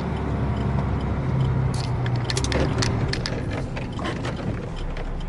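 Heavy truck's engine running with a steady low hum, heard from inside the cab. Partway through comes a run of sharp, irregular clicks and rattles.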